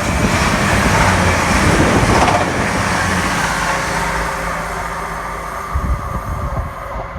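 Class 222 Meridian diesel-electric multiple unit passing through the station. There is a loud rush of wheels and air over a steady engine drone, peaking about two seconds in and easing off as the train goes by.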